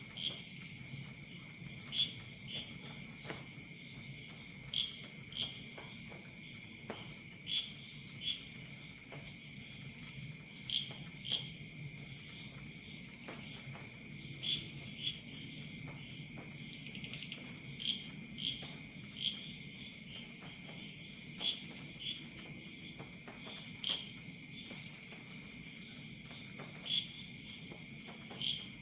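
Night insect chorus of crickets: a continuous high pulsing trill and a steady lower drone, with short chirps repeating about every second or so. Scattered sharp pops of a crackling campfire and a low rumble sit underneath.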